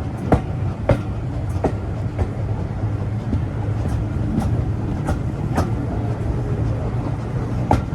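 Heritage railway train running along the line, heard from inside the passenger carriage: a steady low rumble with sharp clicks about once a second, at uneven spacing, as the wheels cross rail joints.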